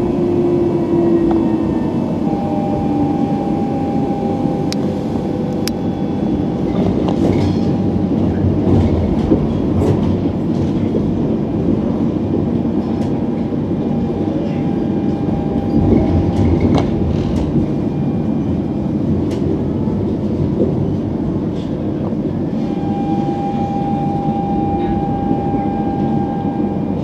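Tram running along its tracks, heard from on board: a steady rumble with scattered clicks from the rails, and a thin whine that comes and goes several times.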